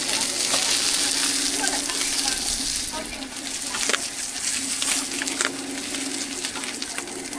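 Food frying in hot oil, a steady sizzle that is loudest for the first three seconds and then eases off, with a few light clicks of utensils. A steady low hum runs underneath.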